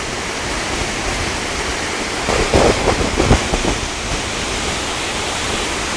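Waterfall rushing: a steady, loud wash of falling water, with a few short bumps on the microphone in the middle.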